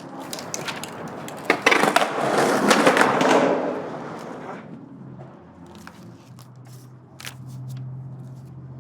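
Skateboard clacking and its wheels rolling over pavement, loudest about two to four seconds in and then fading away, with scattered knocks after. A faint steady low hum runs through the second half.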